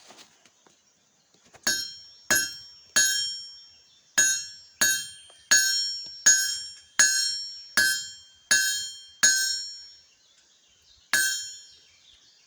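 Blacksmith's hammer striking on an anvil, twelve blows in an uneven series at about one and a half a second, each with a clear bell-like ring. The blows are cutting the bar most of the way through.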